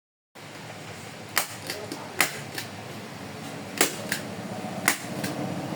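Hand staple gun firing into a motorcycle seat cover: four pairs of sharp clicks, the two in each pair about a third of a second apart, over a low steady hum.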